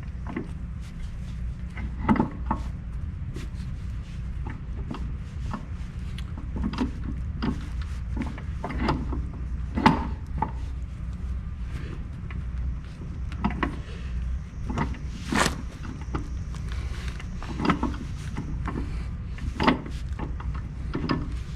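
Irregular metal knocks, clunks and scrapes as a heavy outer clutch housing is worked into place against the engine, over a steady low hum. The sharpest knocks come about ten and fifteen seconds in.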